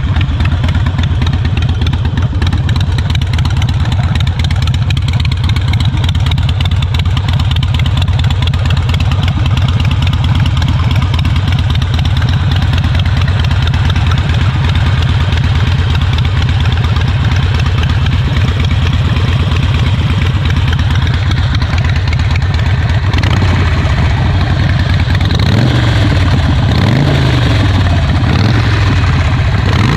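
Harley-Davidson Iron 883 air-cooled V-twin bored out with a Hammer Performance 1250cc kit, idling steadily in neutral. In the last few seconds it is blipped several times, the pitch rising and falling with each rev.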